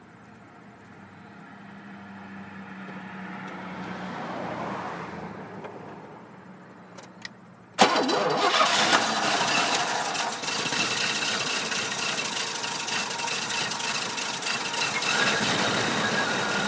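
Oldsmobile Cutlass V8 starting: after a quieter stretch and two clicks, the engine catches suddenly about eight seconds in without cranking for long, then runs rough. The owner first blames brake cleaner sprayed on the carburetor, and later traces the rough running to the spark plug wires for cylinders 1 and 7 being swapped.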